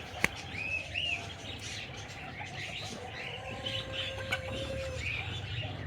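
Aviary birds chirping: a couple of short rising-and-falling chirps about a second in, then scattered faint calls over a faint steady hum that fades out near the end.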